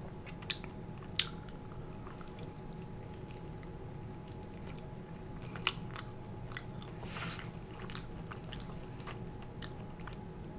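A person biting and chewing a barbecue-sauced chicken wing with crispy, chewy skin: scattered short chewing clicks, a few sharper than the rest, over a faint steady hum.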